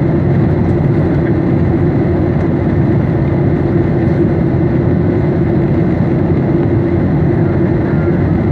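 Steady cabin noise inside a Boeing 737 airliner: an even rush of jet engines and airflow with a constant low hum, unchanging throughout.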